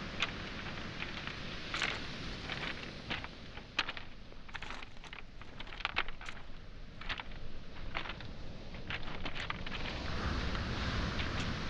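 Footsteps on a pebble and small-boulder beach, stones clacking and crunching underfoot in irregular sharp clicks. Behind them, the steady wash of waves on the shore, swelling louder near the end.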